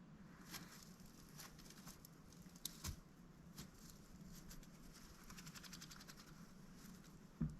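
A mallard duck moving about, making faint clicks and taps, with a quick run of soft ticks about five to six seconds in and a sharper knock near the end.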